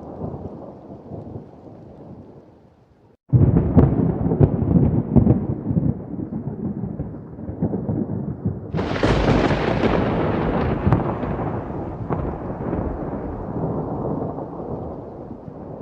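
Thunderstorm: a rumble of thunder fades out, then a sudden loud clap about three seconds in rolls on with crackling strokes. A second, brighter crash of thunder near nine seconds slowly dies away.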